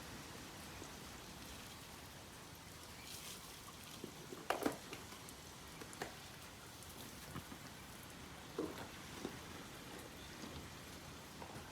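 Powdered laundry detergent being sprinkled over a wet, greasy engine: faint, scattered pattering and light ticks, with one louder rattle about four and a half seconds in.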